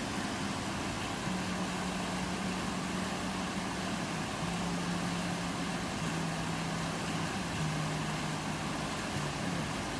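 A 4x4's engine runs at steady revs, its note stepping down a few times over several seconds, under a steady rush of river water.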